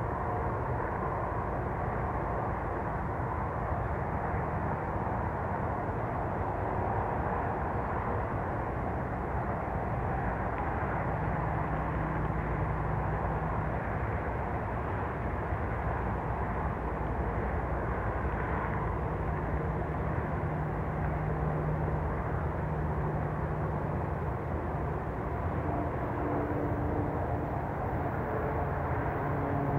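Steady rumble of a train running past, with a low hum that comes and goes.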